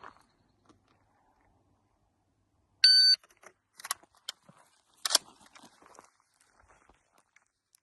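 A shot timer gives one short electronic beep. It is followed by a series of metallic clicks and clacks from the CA-3 rifle being handled as the magazine is loaded and the rifle readied, with the sharpest clack about two seconds after the beep.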